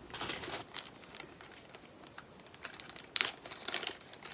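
Small plastic bags of diamond painting drills crinkling as they are handled, with light clicks and taps in between; the rustling is loudest at the start and again about three seconds in.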